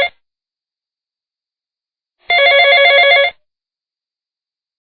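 Telephone ringing with a fast trilling ring: the last moment of one ring at the very start, then one full ring of about a second just after two seconds in.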